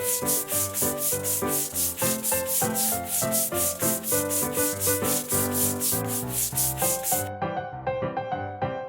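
Rhythmic rasping rub strokes, about four a second, over background music; the strokes stop about seven seconds in and the music carries on.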